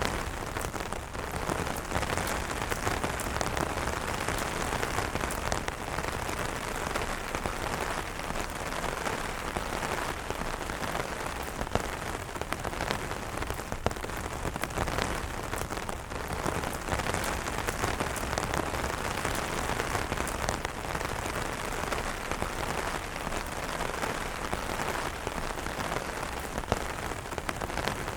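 Steady, heavy rain falling on umbrellas, with many individual drops hitting close by in a dense, even patter.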